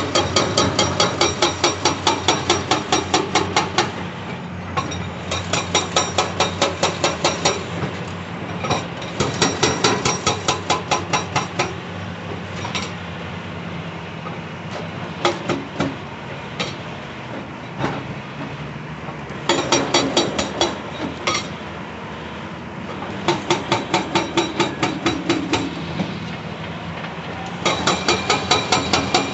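Hydraulic breaker on a CAT 349E excavator hammering rock in runs of rapid, evenly spaced blows, about five a second. Each run lasts two to four seconds, and the runs are separated by pauses filled with the excavator's steady engine hum. Around the middle there is a longer pause broken by a few single blows.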